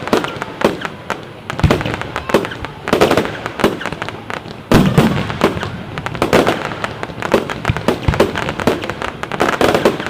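Fireworks going off: a dense, continuous run of bangs and crackling bursts, with heavier, deeper bangs about one and a half, four and a half and eight seconds in.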